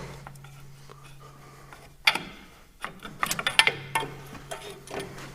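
Scattered metal clicks and clinks of hand tools and parts being handled while a tractor's tach drive is worked loose, over a steady low hum.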